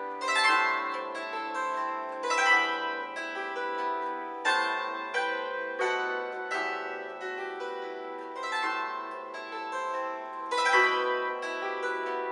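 A solo zither-like string instrument playing a folk-song melody: notes and chords with sharp attacks that ring on and fade, with strong new attacks every two seconds or so.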